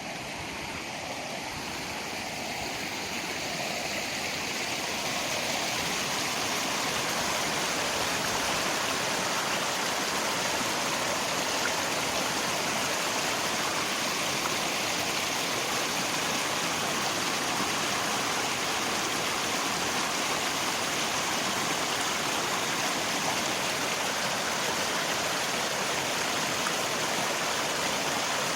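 River water rushing steadily, mixed with falling rain, fading in over the first several seconds and then holding an even level.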